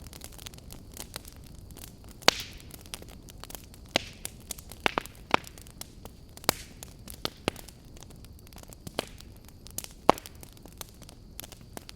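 Log fire crackling: irregular sharp pops and snaps from the burning wood over a faint steady hiss, with two louder pops, about two seconds in and about ten seconds in.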